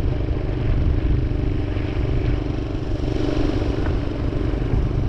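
Minibike's small engine running steadily while riding along at cruising speed.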